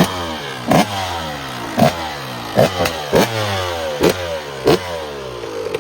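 Dirt bike engine revved in a string of about seven sharp throttle blips, its pitch falling away after each one.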